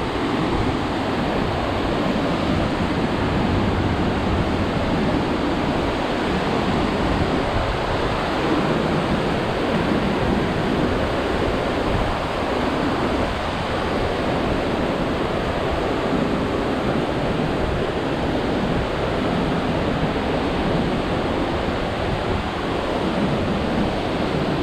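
Large waterfall pouring at close range: a loud, steady roar of falling water, with uneven gusts of wind and mist buffeting the microphone.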